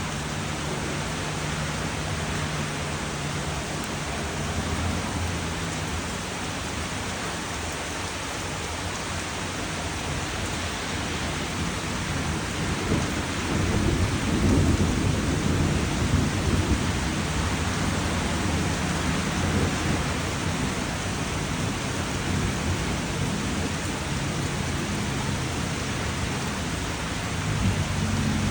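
Steady rain falling, with a roll of thunder rumbling low about halfway through, briefly louder than the rain.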